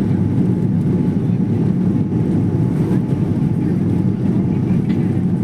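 Aeroplane cabin noise: a steady, low noise of engines and airflow that holds even throughout.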